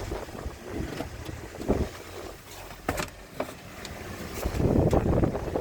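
Toyota 1NZ-FE 1.5-litre inline-four engine running in a Probox, with a low rumble and wind on the microphone. A few sharp clicks come through, and the engine gets louder near the end.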